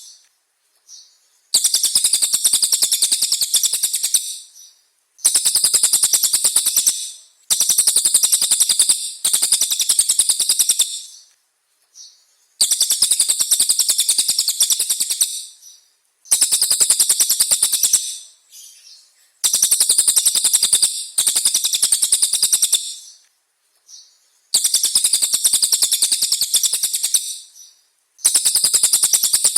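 A songbird singing a series of fast, high-pitched trills of rapidly repeated notes, each phrase two to three seconds long with short pauses between, about nine phrases in all.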